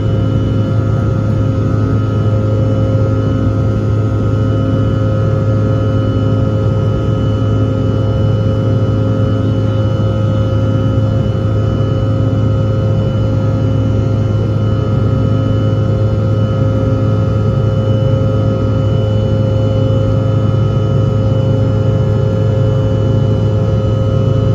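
Steady drone of an Air Canada airliner's jet engines heard from inside the cabin: a loud low hum with several steady whining tones over it, holding constant throughout.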